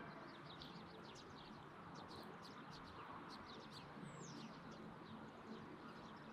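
Faint small birds chirping: many quick, high chirps and one short falling whistle about four seconds in.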